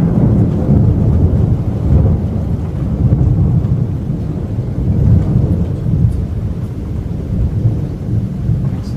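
Loud, long rolling rumble of thunder from a close, intense thunderstorm, swelling and easing without a break.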